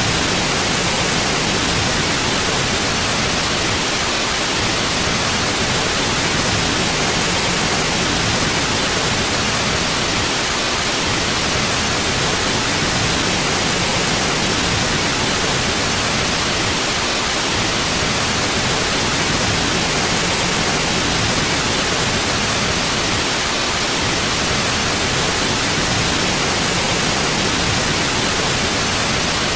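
Continuous white noise: a steady, even hiss with no changes or events.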